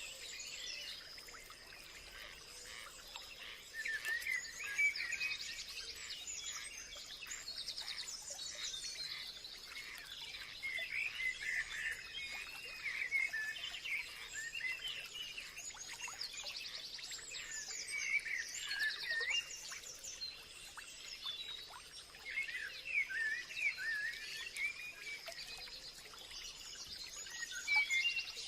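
Several wild birds chirping and singing in overlapping bursts, with quick warbled phrases and rapid high trills, over a steady thin high-pitched tone.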